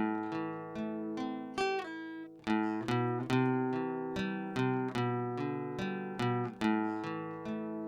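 Acoustic guitar playing an instrumental introduction: chords strummed in a steady rhythm, each ringing on briefly, with a short pause about two and a half seconds in.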